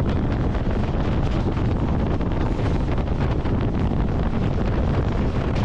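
Indian Railways express passenger train running at full speed: a steady rumble and rattle of wheels on the rails, with wind rushing over the microphone.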